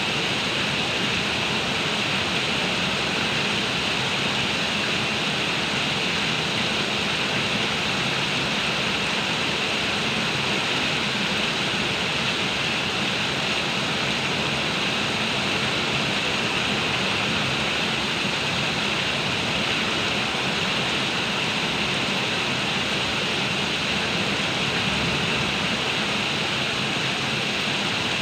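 Heavy rain pouring down steadily, a dense, unbroken hiss.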